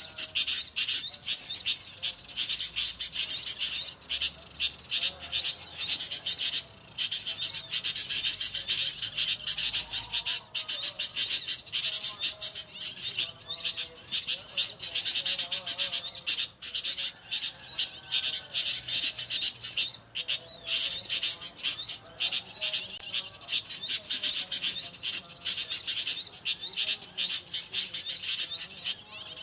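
Small birds chirping and calling rapidly and without pause, a dense high-pitched chatter with no let-up.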